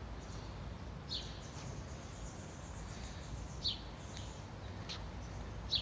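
A small bird chirping: four short, high, falling notes a second or more apart, over a steady low rumble.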